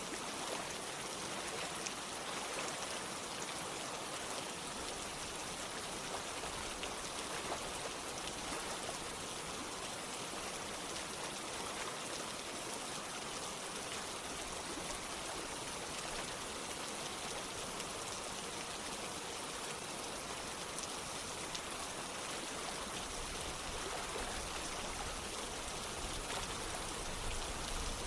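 Steady rain with running water: an even, continuous hiss scattered with small drop ticks.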